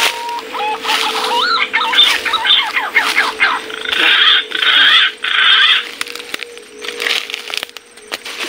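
Birds calling: rising whistles, then a run of quick wavering notes. They are followed by three harsh, noisy bursts around the middle, over a steady hum.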